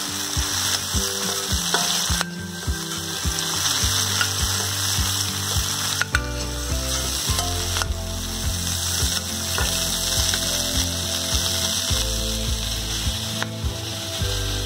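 Giant freshwater prawns sizzling as they fry in hot mustard oil in a steel pan. Under the hiss runs a steady ticking rhythm with low tones that shift every fraction of a second.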